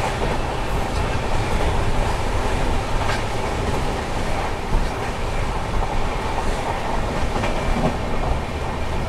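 Express passenger train running at speed, heard from on board: a steady rumble of coach wheels on the rails, with a few faint clicks over rail joints.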